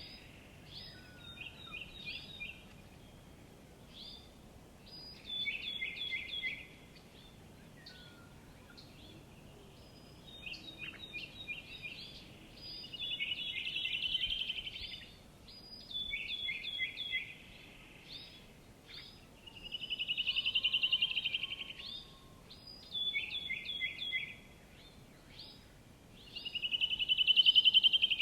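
Songbird singing: repeated short phrases of quick down-slurred notes, alternating every few seconds with a fast trill that swells louder and fades, over a faint steady background hiss.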